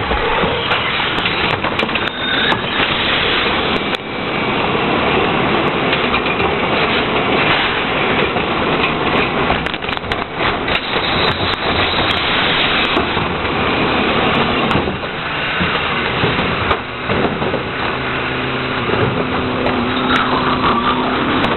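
Heil 5000 rear-loader garbage truck at work: its engine running loud and steady, with many sharp cracks and snaps of trash being crushed throughout. A steady engine drone stands out near the end.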